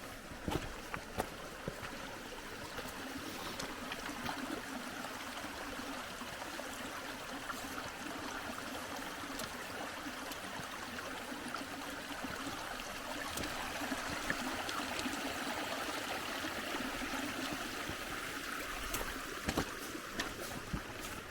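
Steady rushing of a running mountain stream, with a few sharp knocks near the start and near the end.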